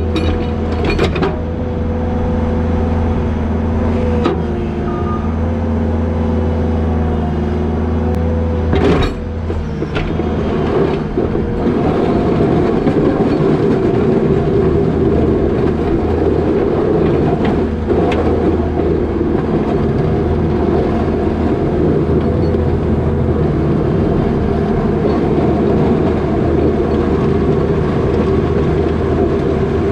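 New Holland L220 skid steer's diesel engine running with a steady note, broken by several sharp clanks and knocks, the loudest about nine seconds in. From then on the machine works harder, with a louder, rougher noise as the box plow pushes wet snow.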